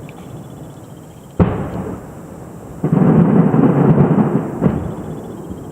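Distant fireworks shells bursting, heard from about a mile away: a sharp boom about a second and a half in with a rolling, thunder-like echo, then a dense rumble of bursts lasting about two seconds that cuts off suddenly.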